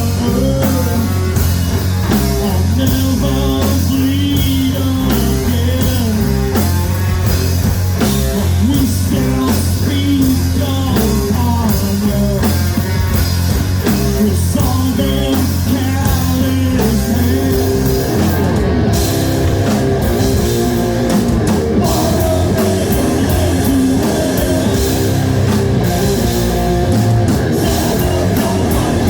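Rock band playing live, with electric guitar, bass and drum kit.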